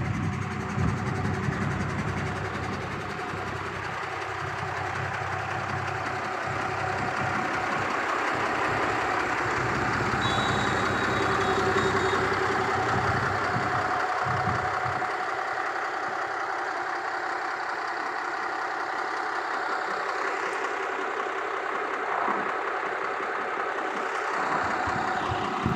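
Heavy truck engine running steadily at idle; its deep low rumble drops away about halfway through while the higher engine noise carries on.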